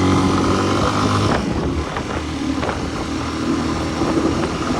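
Hartford VR motorcycle engine running under way; a little over a second in the engine note drops away and carries on lower and quieter, as when the throttle is eased or a gear changed.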